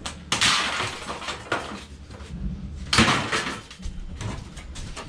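Scrap being handled and tossed: a series of knocks and rattles, the loudest about three seconds in.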